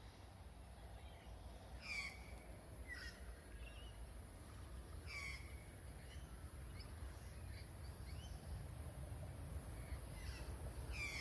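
Faint birdsong: a call that sweeps downward, repeated every few seconds, with smaller short chirps between, over a steady low rumble.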